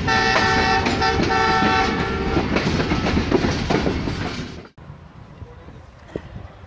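Diesel locomotive horn sounding two long multi-tone blasts over the rumble of a moving train. The train noise runs on until it cuts off abruptly about four and a half seconds in, leaving quiet background with a few faint knocks.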